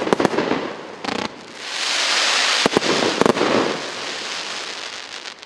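A 48-shot consumer fireworks cake firing: a string of sharp bangs, then a loud, dense rush of noise about two seconds in with two more bangs inside it, fading off toward the end.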